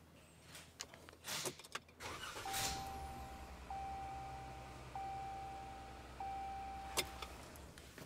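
The Ram 1500's 3.6-litre V6 is turned over on the starter for about five seconds after a few clicks. This is done so the PCM pulses the number 4 injector circuit into a test light. A steady chime tone sounds four times in a row over the engine noise.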